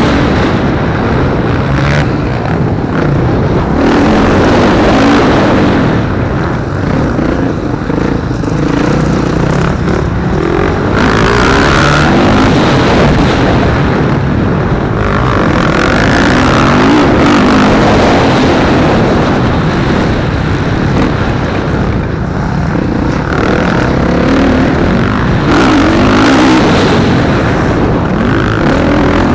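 Motocross dirt bikes racing, their engines revving up and falling back over and over as they accelerate and shift through the track.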